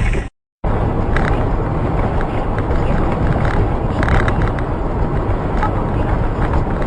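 Car driving with a steady mix of engine and road noise. It drops out completely for a fraction of a second just after the start, then resumes.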